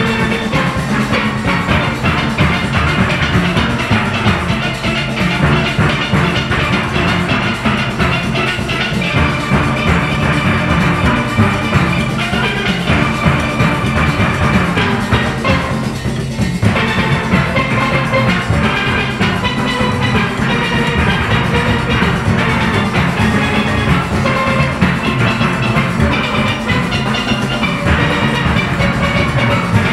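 A full steel orchestra playing a fast calypso arrangement, many steelpans from bass to tenor with drum-kit and percussion rhythm.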